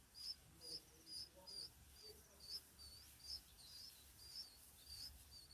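A small bird chirping faintly and repeatedly, with short high chirps at about three a second.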